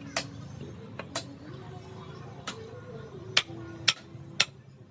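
Sharp knocks and taps at irregular intervals, about seven in all, the three loudest coming about half a second apart near the end, over a faint wavering tone.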